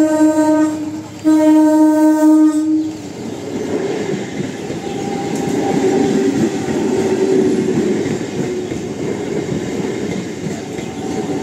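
EMU local train sounding its horn in two blasts, then running fast past the crossing with a steady rumble and clatter of wheels on the rails.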